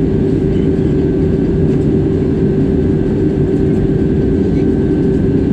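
Jet airliner engine and airflow noise, a loud steady drone with a constant hum over a low rumble.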